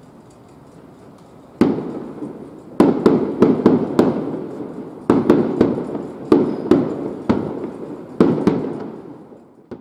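Distant aerial firework shells bursting: about fourteen sharp bangs in quick clusters starting about a second and a half in, each followed by a rolling echo that fades out.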